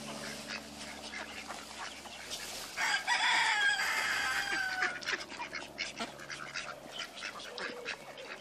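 A rooster crows once about three seconds in, the call lasting around two seconds and falling in pitch at the end, over the background clucking and quacking of a yard of poultry and ducks.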